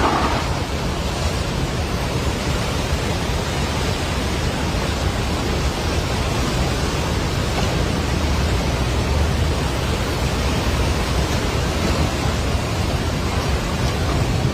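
Swollen floodwater river rushing past, a loud, steady rush of water that does not change.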